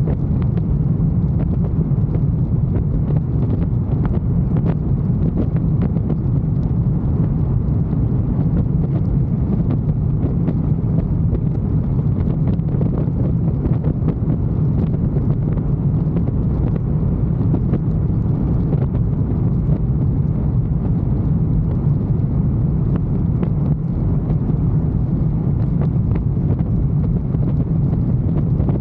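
Motorcycle riding at a steady speed: wind rushing over the camera microphone mixed with the engine and road noise, a constant low rumble with no revving.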